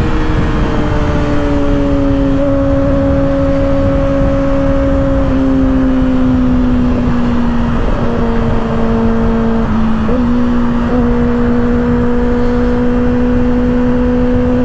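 Kawasaki ZX-6R's inline-four engine with an aftermarket M4 exhaust running steadily under way. Its pitch sags slowly and steps up briefly about ten seconds in. Low wind noise on the microphone runs under it.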